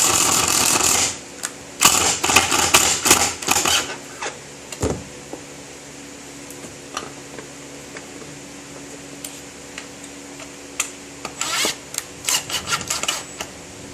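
Workbench clatter: a loud burst of rattling at the start, choppy bursts of clattering a couple of seconds in, scattered single clicks, and another run of rapid clattering near the end, over a faint steady hum.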